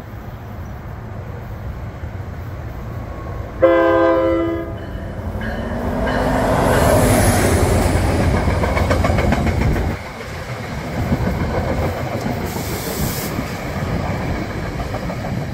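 New Jersey Transit commuter train sounding one short horn blast, about a second long, about three and a half seconds in. It then passes close by, the noise of the train and its wheels on the rails growing loud and running on as the coaches go past.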